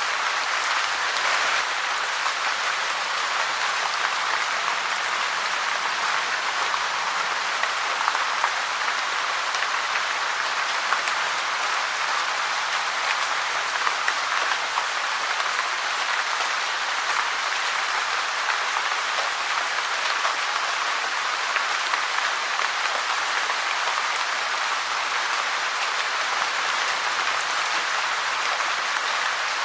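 Steady rain falling, a dense even hiss of drops with no thunder or other events.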